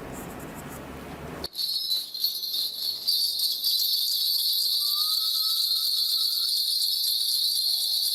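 A shaman's ritual bells being shaken without a break: a steady, high, shimmering jingle that starts suddenly about a second and a half in.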